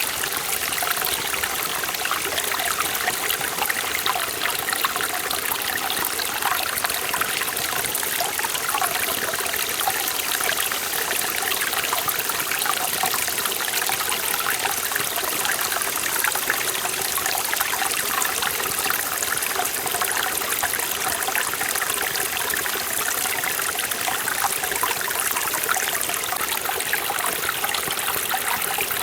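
Forest valley stream running steadily over rocks, with a constant rush of water and fine bubbling trickles.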